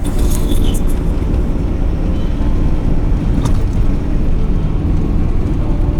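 Steady rumble of a moving vehicle and surrounding road traffic, with a brief click about three and a half seconds in.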